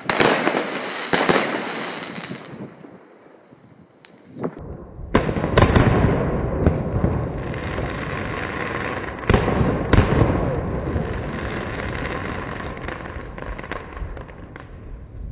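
Bonfireworks 'Miracle' 16-shot fireworks cake firing its last shots, sharp bangs and crackling for about the first two seconds. After a short lull, the same shots are heard slowed down for a slow-motion replay: a deep, muffled rumble of bangs and crackle that swells twice and fades away near the end.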